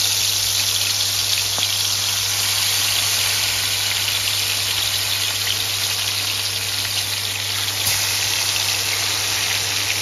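Marinated chicken leg pieces frying in hot oil: a steady, dense sizzle with fine crackling, over a steady low hum.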